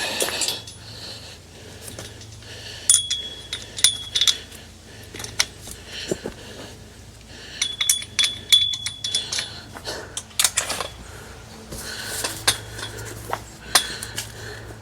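Light metal parts clinking and rattling against each other in several short clusters, each clink ringing briefly.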